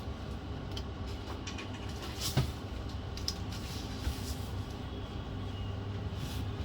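Light clicks and taps of small laptop parts and tools being handled during reassembly, over a steady low hum; the sharpest click comes about two seconds in.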